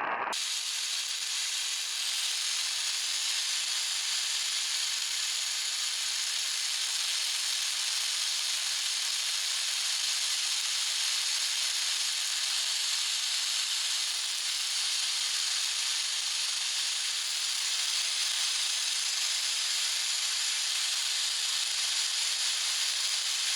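Radio receiver tuned to WSM giving only steady static hiss with no programme audio, a sign the station is off the air; the listener assumes it has been knocked off by the storm.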